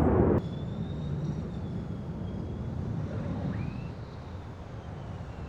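Jet aircraft engine whine at a distance, a faint high tone slowly falling in pitch over a steady low rumble. A louder jet roar cuts off abruptly right at the start.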